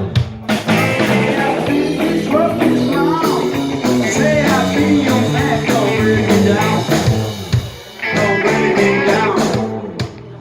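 Rock band playing a song, with guitar and a stepping bass line over drums. The music drops back briefly about eight seconds in, then picks up again.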